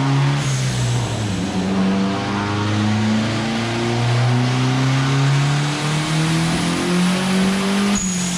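Turbocharged Honda D15B four-cylinder revving up under load on a chassis dyno, its pitch climbing steadily for several seconds, with a couple of small breaks. Near the end the pitch drops sharply and a brief high whistle sounds.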